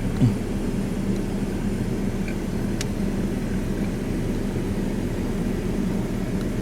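A steady low engine-like drone, with a brief thump just after the start.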